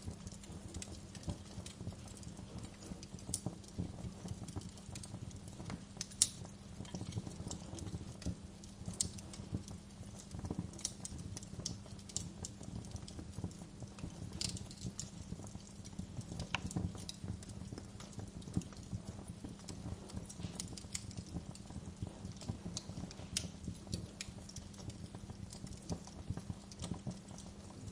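Wood fire crackling in a fireplace: dense, irregular small crackles and sharper pops over a low steady rumble of burning, with one louder pop about six seconds in.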